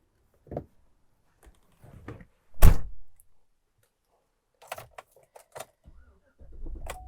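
A truck door shutting with one heavy thunk about two and a half seconds in, among several lighter clicks and knocks from inside the cab.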